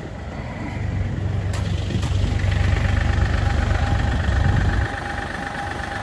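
Excavator's diesel engine running at idle, its low rumble growing louder about a second in and easing back near the end, with a steady whine joining about two seconds in. Two sharp clicks sound around the second mark.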